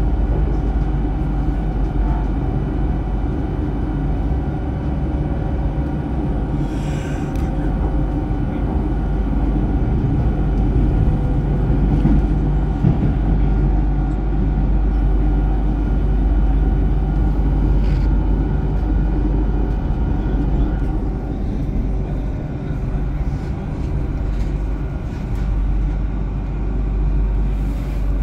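Interior ride noise of a South Western Railway Class 458/4 electric multiple unit in motion: a steady low rumble and hum of wheels on rail. There is a brief hiss about seven seconds in and a single sharp click about two-thirds of the way through.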